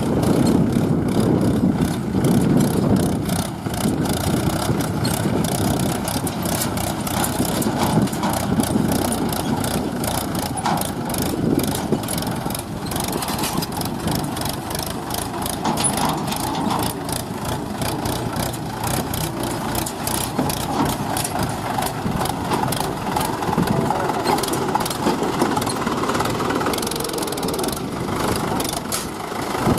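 Diesel engine running steadily, with a dense, rapid knocking rattle throughout.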